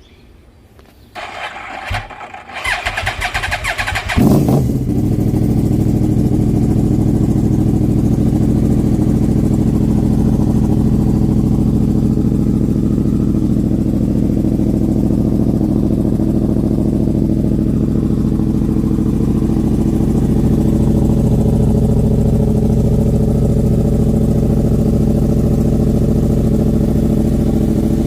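2014 Yamaha R1's 998 cc crossplane inline-four cold-started through a Toce slip-on exhaust with the baffles in: the electric starter whirs and cranks for a few seconds, the engine catches about four seconds in, and it settles into a loud, steady idle.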